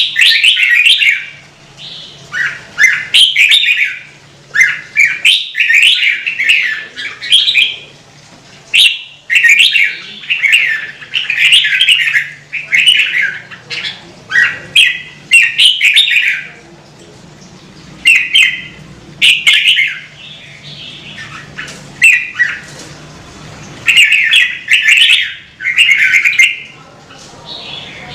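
Red-whiskered bulbul singing: a run of short, loud warbled phrases, one after another with brief pauses between them.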